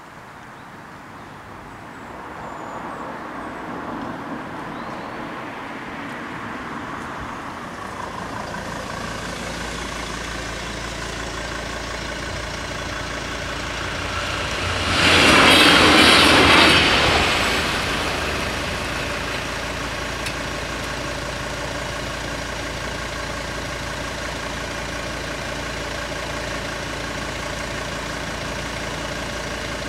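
LINT 41 diesel railcar approaching and passing over the level crossing, loudest for about two seconds some fifteen seconds in. A steady engine hum carries on afterwards.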